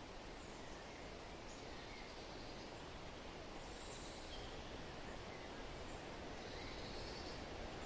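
Steady wind blowing, a soft, even rush, with a few faint short high chirps now and then.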